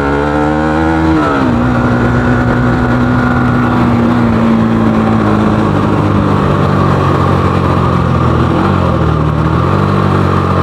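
Bajaj Pulsar AS200's single-cylinder engine running through an aftermarket KTM Duke 250 exhaust while riding. The revs climb for about a second, drop sharply, then the engine note slowly sinks as the bike rolls on, with small blips near the end.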